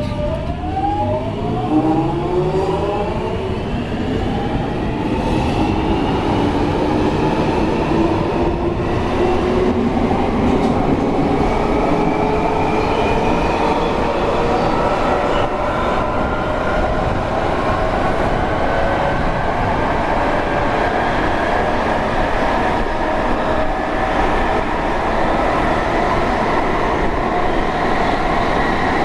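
London Underground 1996 Stock Jubilee line train pulling away: its traction motors whine in several rising tones as it accelerates. The rise is steep for the first few seconds and levels off into a steady running whine over wheel and track rumble about halfway through.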